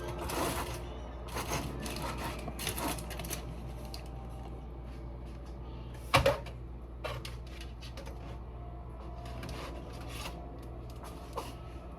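Kitchen clatter: utensils and cookware clicking and knocking, with one loud knock about six seconds in, over a steady low hum.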